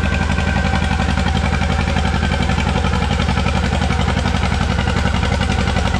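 Antique tractor engine running hard under load while pulling the sled, a steady, loud, even train of exhaust pulses.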